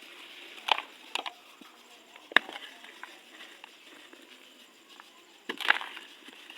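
Dry, dusty, crunchy material crumbling: a few sharp crunches about a second in, another near two and a half seconds, and a cluster near the end, with faint crackling in between.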